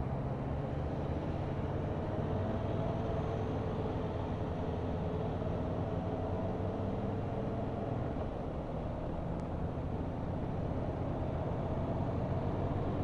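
Motorcycle engine running at road speed with steady wind and road noise; the engine note sinks slowly, then rises again near the end.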